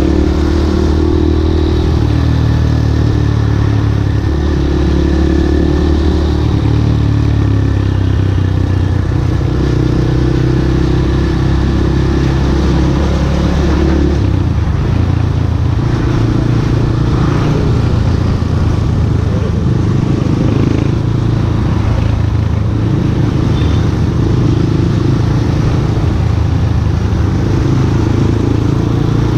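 Yamaha Scorpio Z's air-cooled single-cylinder four-stroke engine running while riding, its note stepping up and down with throttle and gear changes.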